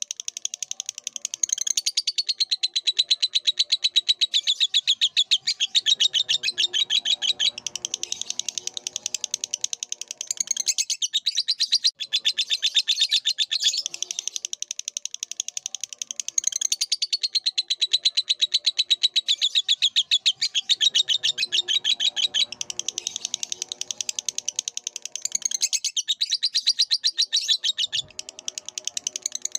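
Lovebird singing a long chattering song: runs of very fast, high, shrill chirps lasting several seconds each, broken by a few short pauses.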